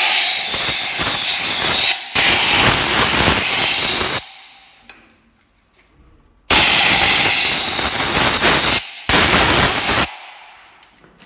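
Compressed-air blow gun hissing in four blasts: two of about two seconds back to back, then a pause, then one of about two and a half seconds and a short last one. Each blast starts abruptly. It is blowing off a shock-absorber part that has just been washed in petrol.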